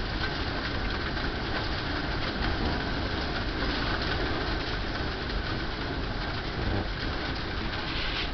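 Hailstones pelting down onto a deck, a dense, steady clatter.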